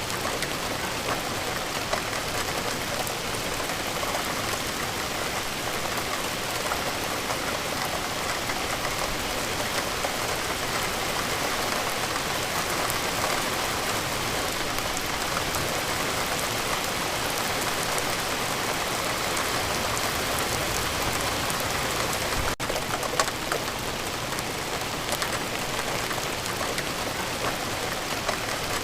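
Steady rainfall, a dense even patter of drops hitting a surface. The rain breaks off for an instant about three-quarters of the way through.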